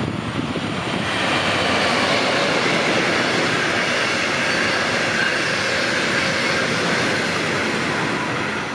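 Electric-hauled DB Regio double-deck passenger train passing close by at speed: a steady rush of wheels on rail with a faint high whine. It swells about a second in and eases off near the end.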